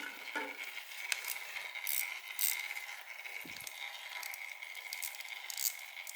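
Faint, irregular metallic clicks and clinks of a hand tool working a bolt loose on the water pump of a Kawasaki KX65 two-stroke.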